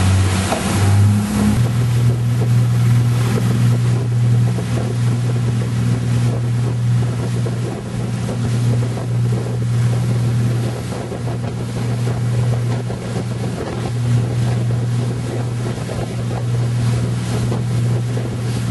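A yacht's engine running with a steady low drone that steps up slightly in pitch about a second and a half in, under a constant rushing hiss.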